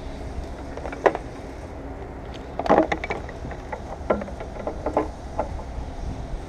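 Scattered sharp clicks and knocks of hand work on a car's windshield area, with a cluster near the middle, over a steady low rumble.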